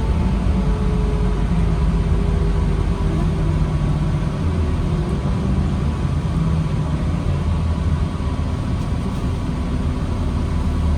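2009 New Flyer D40LFR diesel transit bus running, heard from inside: a steady low engine drone with a faint whine that falls slightly in pitch over the first few seconds.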